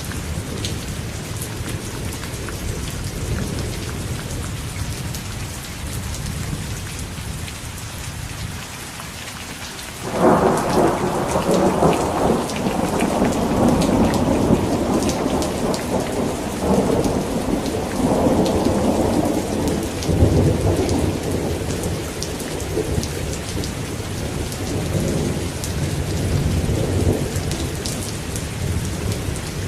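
Steady rain falling, with fine patters of drops. Thunder rumbles low and fades, then about a third of the way in a loud clap breaks and rolls on in repeated surges of rumbling.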